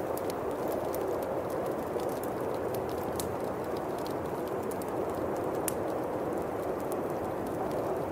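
Bonfire crackling with scattered sharp pops over a steady rush of winter wind.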